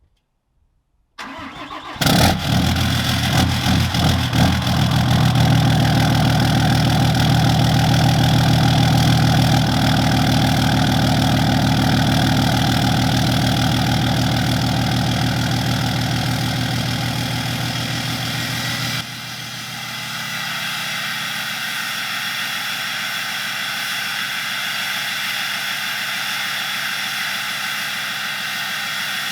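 Straight-piped 6.7 Cummins inline-six turbodiesel with its DPF and EGR deleted, cranking briefly and firing up about two seconds in on a cold start at around 30°F, then idling. It runs a little rough at first, as the owner says she isn't liking the cold. The sound drops suddenly to a quieter, thinner idle about two-thirds of the way through.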